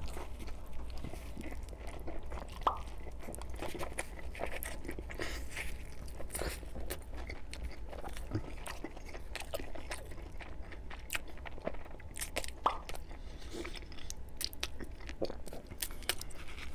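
Close-miked biting and chewing of a Domino's Brooklyn-style pizza slice dipped in a creamy sauce, with the crust crunching in many small, irregular clicks.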